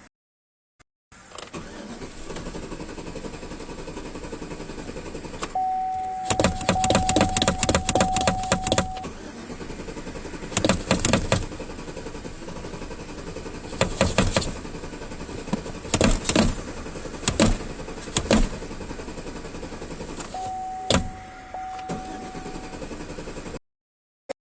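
A car engine being cranked by its starter in several separate bursts without catching, the longest lasting about three seconds, with a steady high tone over two of the cranks.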